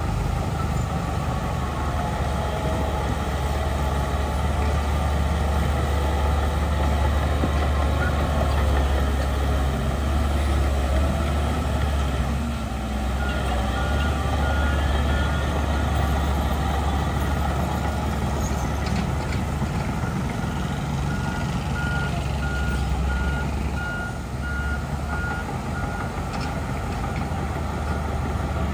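Heavy diesel earthmoving machinery running steadily with a deep engine hum. A reversing alarm beeps at an even pace twice: first about halfway through, then for several seconds near the end.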